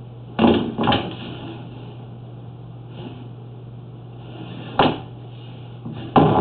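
A few short knocks and clunks over a steady low hum: a sewer inspection camera and its push cable being handled and pulled back through the drain pipe. There are two close together near the start, one about two-thirds of the way in, and one near the end.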